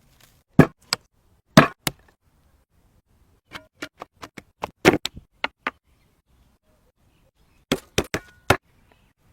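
A knife chopping on a cutting board: sharp knocks, first in pairs, then a quick run of about ten strokes, then a final group of four.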